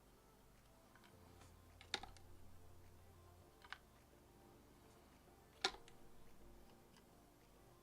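Near silence broken by a few sharp clicks, the loudest about two seconds in and again a little past five and a half seconds, with a smaller one in between.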